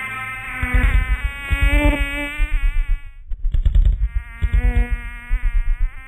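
Cartoon sound effect of a swarm of flies buzzing, the drone wavering up and down in pitch over a fast fluttering pulse, with a brief break about three seconds in.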